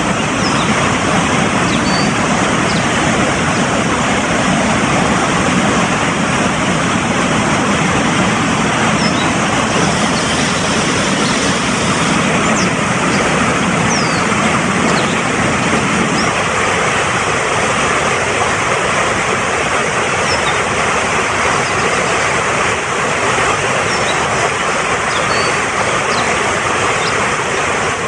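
Fast-flowing mountain stream, a steady loud rush of water. Faint short bird chirps come through now and then, and the deeper part of the rush thins a little about halfway.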